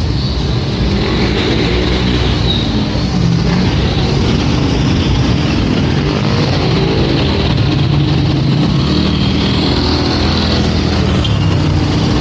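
Motor traffic on a wet street: vehicle engines running close by, over a steady hiss.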